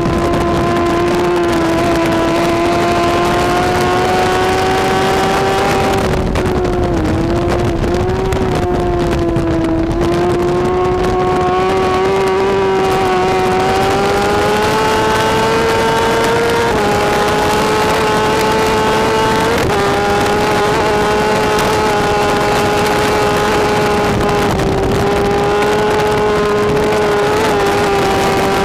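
BMW S1000RR superbike's inline-four engine running hard at high revs for the whole stretch. Its note sags and wavers about six seconds in, then climbs slowly and steps sharply up in pitch twice later on.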